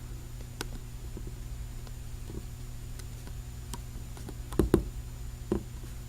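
Light clicks and taps of a rubber vent window weatherstrip being worked into a truck's vent window frame, with a few sharper knocks in the last two seconds, over a steady low hum.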